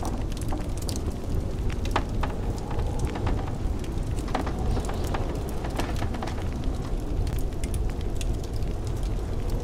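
Wood fire crackling, with irregular sharp pops several times a second over the steady low rush of blizzard wind.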